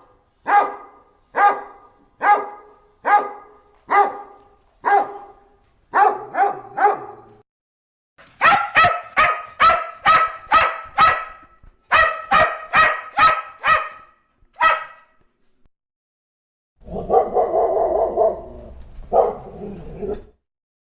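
Dog barking, first in single barks about a second apart, then in faster runs of about three barks a second. Near the end comes a longer, rougher call lasting about three seconds, with a shorter one after it.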